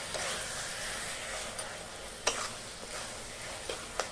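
Mushrooms frying in masala in a kadhai, sizzling steadily as a spatula stirs and scrapes through them, with a few sharp knocks of the spatula against the pan, the loudest about two seconds in.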